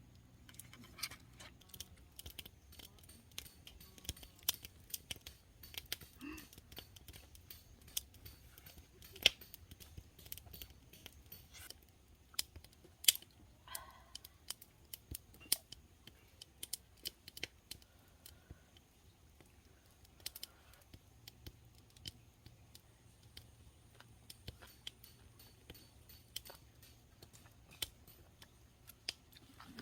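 Kitchen scissors snipping, with many irregular sharp clicks and snaps over a faint steady hum.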